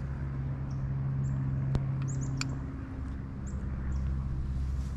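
Several faint, short high chirps of small woodland birds, a few of them falling quickly in pitch, over a steady low hum. A sharp click comes just under two seconds in, with another about half a second later.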